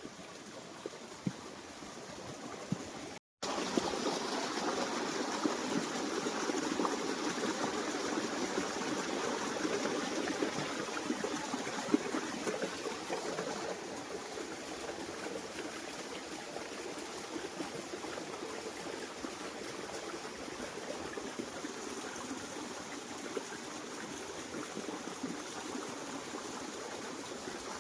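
Small waterfall's water pouring and running steadily into a rocky pool. It cuts out for a moment about three seconds in, comes back louder, and eases a little about halfway through.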